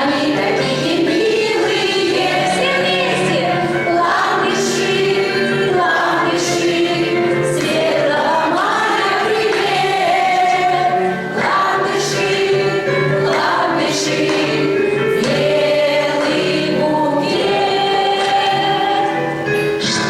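A choir singing a song, several voices together on long held notes.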